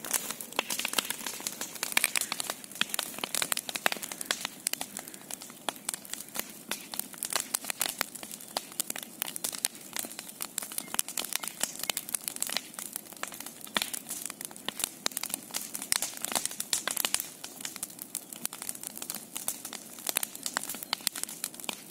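Large bonfire burning, crackling and popping with a dense, irregular run of sharp snaps.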